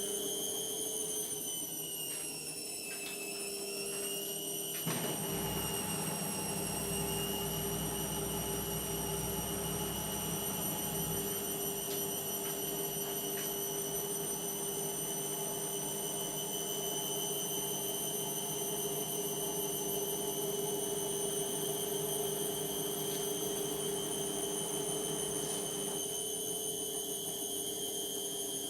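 Indesit washing machine on its spin: the motor's high whine, having climbed as the drum sped up, levels out and holds a steady pitch, with the drum's rumble joining about five seconds in.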